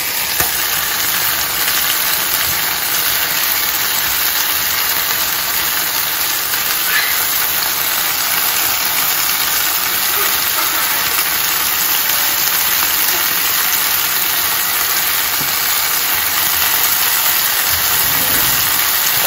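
Chicken leg quarters sizzling steadily in oil in a hot frying pan.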